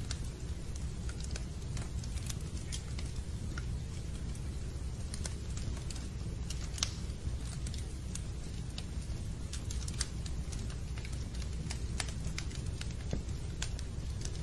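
Fireplace fire crackling: scattered, irregular sharp snaps and pops over a steady low rumble.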